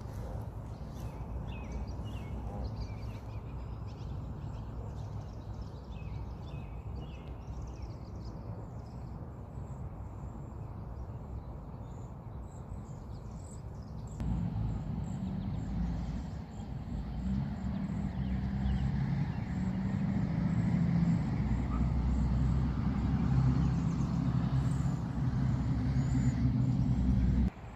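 Outdoor ambience: faint bird chirps over a steady low rumble, which turns louder and heavier about halfway through.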